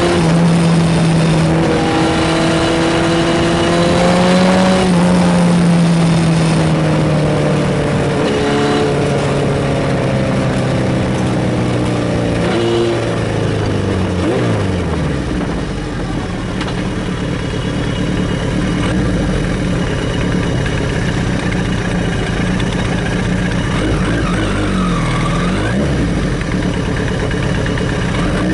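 Kawasaki Z1000Mk2's air-cooled inline-four on FCR carburetors, running on the road. Through the first half its note rises and falls with the throttle and gear changes. About halfway it drops away and settles into a lower, steadier running note.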